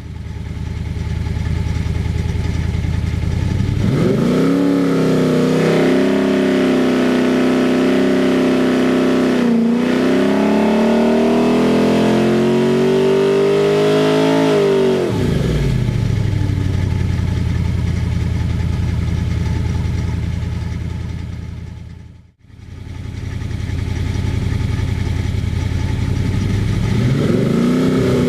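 Ford 289 V8 running on an engine dynamometer. It idles, is revved up about four seconds in, and climbs steadily to a high peak before dropping back to idle. After a brief break near the end it idles and starts revving up again.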